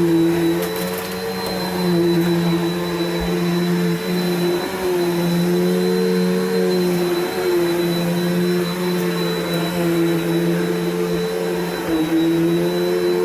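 Bissell PowerForce upright vacuum cleaner running: a steady motor hum with a thin high whine above it, its level and pitch wavering slightly every couple of seconds. It is running well on its first use after more than a year in storage.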